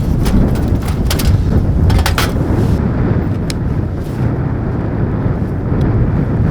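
Strong gusty wind buffeting the microphone: a loud, continuous low rumble, with a few sharp clicks in the first half.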